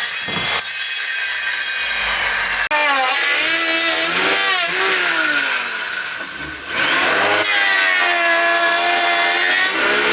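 Steady sawing noise that cuts off abruptly a few seconds in, followed by a motor-driven tool or small engine whose pitch repeatedly rises and falls, as in revving or loading under a cut.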